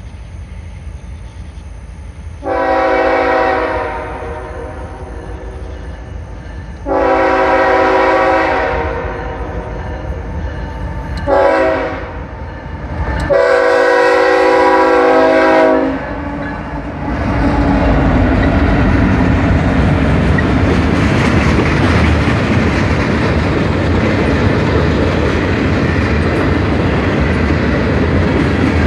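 Norfolk Southern freight train's diesel locomotive horn sounding the grade-crossing signal, long, long, short, long, over the rumble of the approaching engines. The locomotives then pass, and the freight cars roll by with a steady clickety-clack of wheels on the rails.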